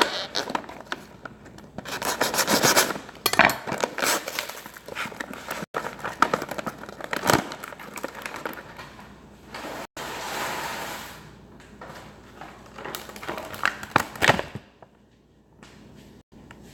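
Kitchen handling sounds while dry bow-tie pasta goes into a pot of boiling water: an irregular run of rubbing and scraping noises with sharp clicks, dying down a couple of seconds before the end.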